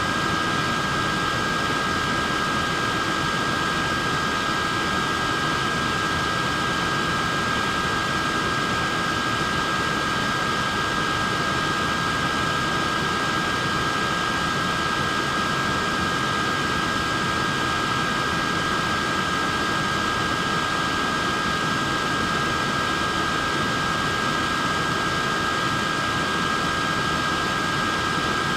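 A wearable neck fan running steadily: an even rush of air with two constant high-pitched whining tones from its small motor over it.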